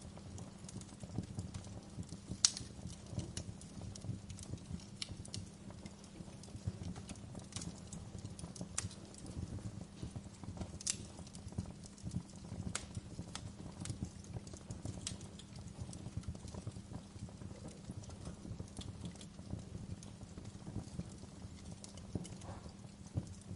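Fire crackling steadily over a low, even rumble, with sharp pops every second or two, the loudest about two and a half seconds in.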